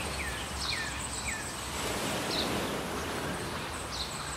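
Outdoor ambience with small birds chirping: a handful of short, falling chirps in the first second and a half, and a few higher ones later, over steady background noise.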